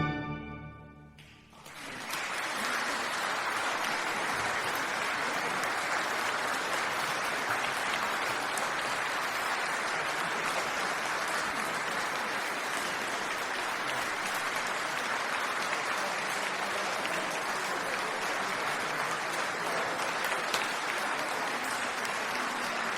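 The last note of a piece of music dies away in the first second or so, then steady, dense applause from an audience starts and holds without letting up.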